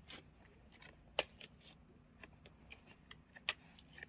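Campfire crackling: scattered sharp pops of burning wood, the two loudest about a second in and near the end.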